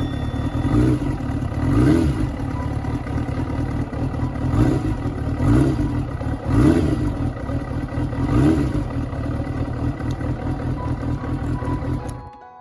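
Kawasaki ZRX400 inline-four motorcycle engine running, the throttle blipped again and again so the revs rise and fall back every second or two. The engine sound cuts off suddenly near the end.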